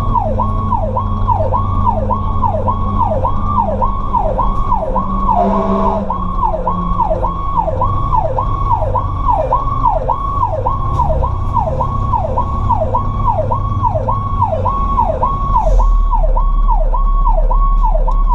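Fire truck's electronic siren in a fast yelp, sweeping up and down about twice a second, over the steady drone of the truck's engine. A brief extra blast cuts in about five and a half seconds in.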